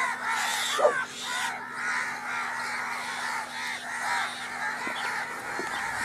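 Harsh bird calls repeated over and over, with one louder call about a second in.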